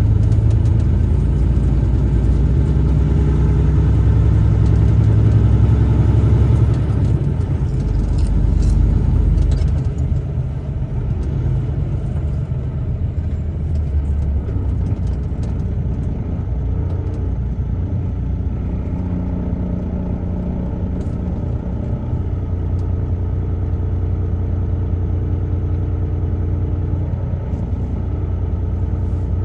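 Truck driving along a road: a steady low engine and road rumble, louder for about the first ten seconds, then easing to a lower, even drone.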